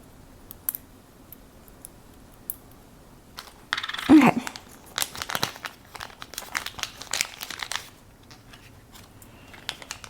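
Plastic bag crinkling as it is handled, in irregular bursts that start about four seconds in after a few faint ticks.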